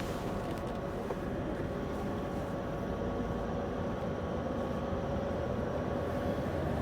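Scania V8 diesel truck engine running steadily at low speed, heard from inside the cab, with a few steady drone tones over the engine and road noise.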